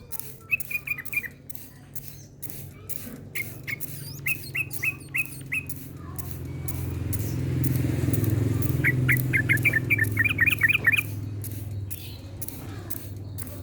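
Yellow-vented bulbul (cucak trucuk) singing in bursts of short, sharp downward chirps, ending in a fast run of a dozen or so notes. A low engine hum swells and fades underneath midway through.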